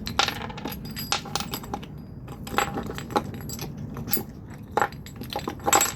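Irregular clinks and rattles of small hard parts being handled, some with a short metallic ring, as the coil-winding rig is picked up and set out.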